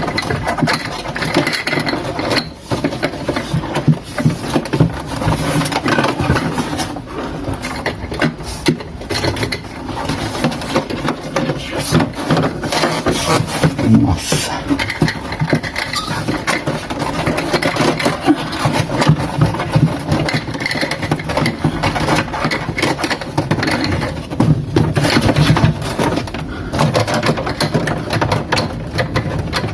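Plastic refrigerator parts being handled and fitted, with irregular rubbing, scraping and small clicks and knocks.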